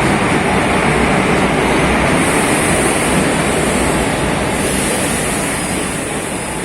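Jan Shatabdi Express passenger train running, a steady loud rushing noise with a high hiss that swells twice.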